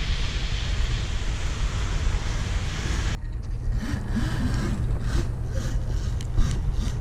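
Wind buffeting the microphone while riding. About three seconds in it gives way abruptly to a steady low hum with scattered crunching crackles.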